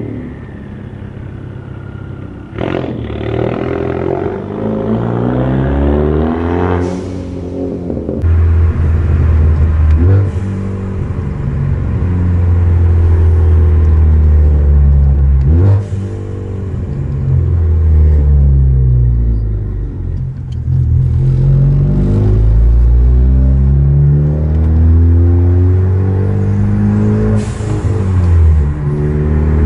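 Ford Focus ST's turbocharged four-cylinder engine pulling through the gears, heard from inside the cabin. Its pitch rises under acceleration and drops at each gear change, with a short rush of turbo noise at several of the shifts. It opens with a falling whine as the car pulls away.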